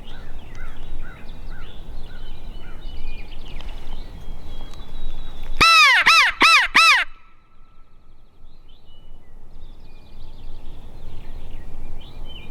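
Four harsh crow caws in quick succession about six seconds in, loud and close. Wind rumble and faint small-bird chirps run underneath.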